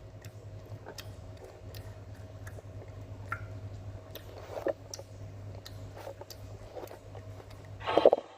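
Person chewing candy close to the microphone: scattered small clicks and mouth sounds over a steady low hum, with a louder burst of sound near the end.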